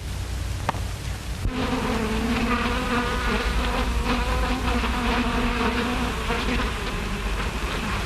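Bees buzzing: a steady, droning hum that sets in suddenly about a second and a half in, over the constant hiss and low hum of an old film soundtrack.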